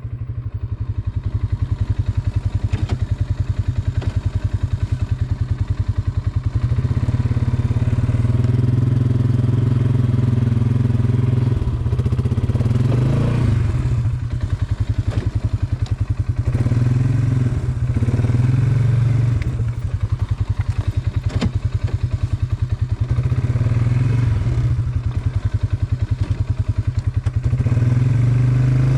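Polaris Sportsman 570 ATV's single-cylinder engine running under throttle on a trail ride, its pitch and level swelling and easing off several times as the throttle is worked. There are occasional short knocks.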